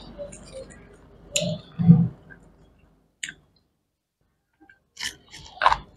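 Close-miked chewing and wet mouth clicks of people eating pickled salad and grilled octopus, with two louder smacks about a second and a half in, a short pause, then a quick run of sharp clicks near the end.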